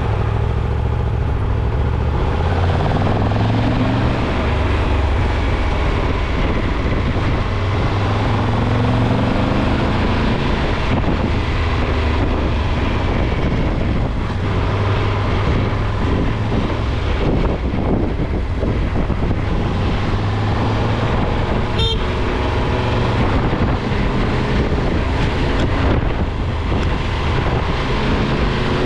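Car driving, with steady engine and road rumble; the engine note rises and falls repeatedly as it speeds up and changes gear. A brief sharp click comes about 22 seconds in.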